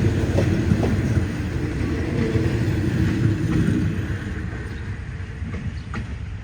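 Passing train rumbling, with a few sharp clicks, dying away over the last couple of seconds.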